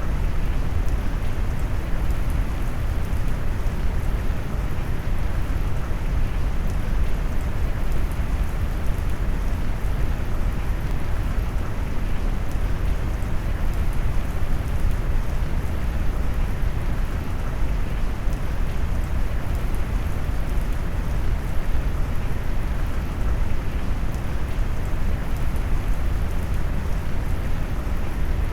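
Steady rain sound mixed with brown noise: an even, deep rushing hiss weighted to the bass, with faint raindrop ticks above it. It holds at a constant level throughout.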